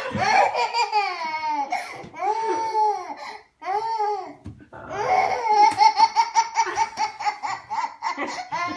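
A baby boy laughing hysterically in high-pitched rising and falling peals and quick chopped bursts, pausing briefly for breath twice near the middle.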